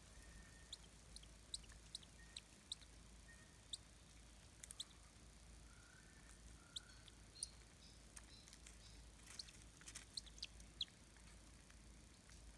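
Faint scene with scattered sharp clicks and ticks, a dozen or so at uneven intervals and thickest near the end, together with a few soft, short high chirps over a low background rumble.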